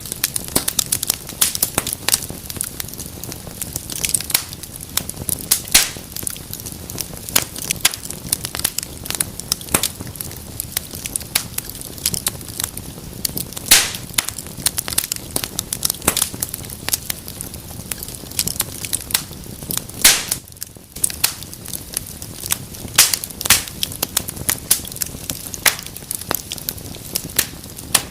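Fire burning in a fireplace, crackling with many sharp, irregular pops and snaps over a steady hiss. There is a brief lull about twenty seconds in.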